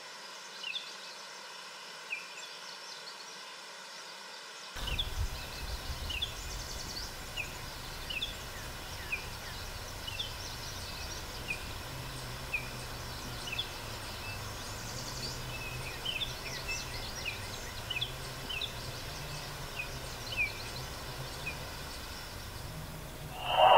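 Open-field ambience with small birds chirping: short, high, falling notes every half second or so over a low steady hum. The first few seconds hold only a quiet steady background before the outdoor sound comes in.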